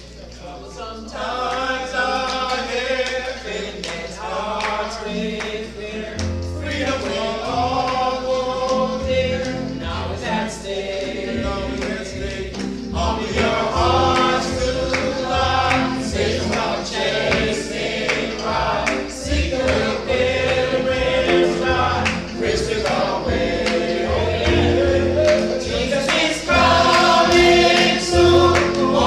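A vocal group singing a gospel song in harmony, with accompaniment. Low bass notes come in about six seconds in, and the music grows louder toward the end.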